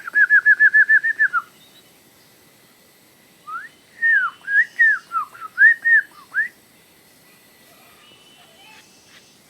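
Clear whistled notes: a quick run of about nine short falling notes in the first second and a half, then, from about three and a half seconds in, a looser phrase of rising and falling whistles lasting about three seconds.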